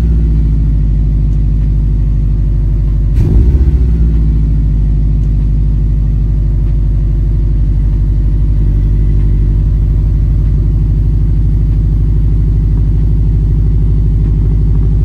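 2011 Subaru WRX's turbocharged 2.5-litre flat-four engine and exhaust idling steadily just after a start, with one short throttle blip about three seconds in.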